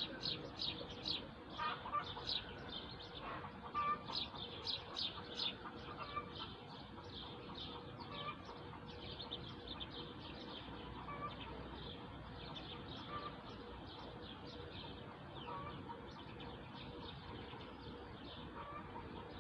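Birds chirping: many quick, high, downward-sweeping chirps, close together and louder in the first six seconds, then fainter and steady.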